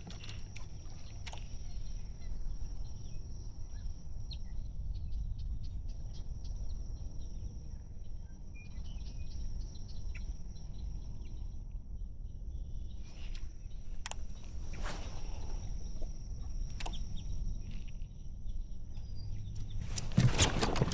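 Outdoor ambience on open water: a steady high-pitched drone, a constant low rumble, and scattered light clicks and ticks, with a louder burst of knocking and rustling near the end.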